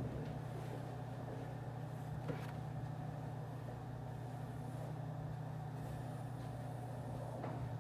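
Office background ambience: a steady low hum. A small click comes about two seconds in and a fainter one near the end.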